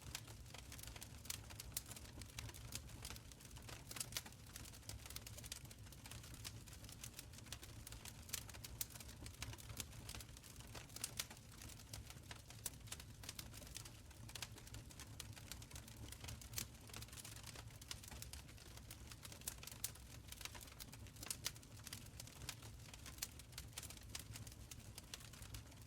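Wood fire crackling in a stone fireplace: irregular sharp pops and snaps over a low, steady rumble of flames.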